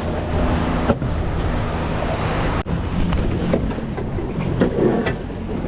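Wind buffeting the microphone and sea water rushing past a small fishing boat, with the boat's engine humming low and steady underneath. The sound drops out briefly about two and a half seconds in.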